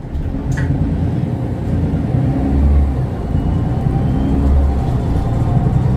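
Mercedes-Benz Citaro O530 bus's Daimler OM906 6.4-litre six-cylinder diesel pulling hard. The deep engine note steps up in loudness at the start and swells twice as the bus gathers speed.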